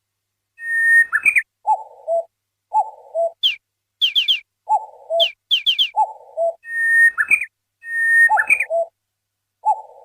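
Bird-like whistles and chirps repeating in an identical looped pattern. A long steady whistle ends in a falling note, short low calls follow in pairs, then high chirps sweep downward in quick threes, and the long whistles come back near the end.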